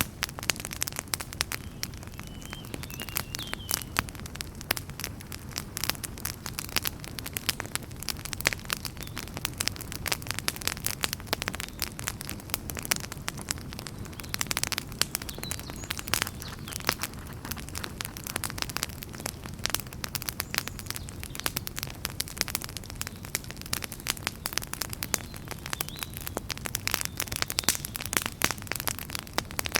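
Fire burning in a fireplace: dense, irregular crackles and pops over a low, steady rumble of the flames.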